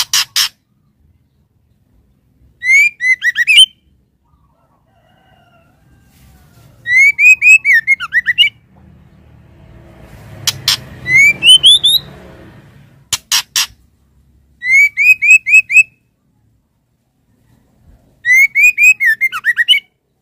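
Female white-rumped shama calling: five loud bursts of quick, rising chirps, each about a second long and a few seconds apart, with a few sharp clicks in between.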